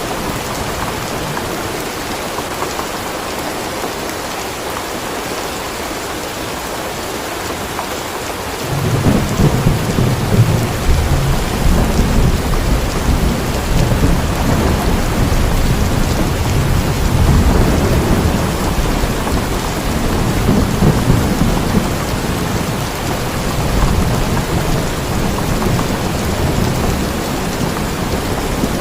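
Steady rain falling, with thunder: a low rumble sets in suddenly about a third of the way through and rolls on, swelling and ebbing, to the end.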